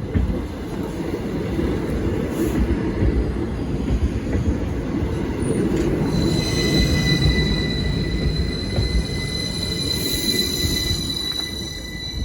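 A train passing over a level crossing, its wheels giving a dense, steady rumble. From about six seconds in a high, steady whine rides over the rumble and stops near the end.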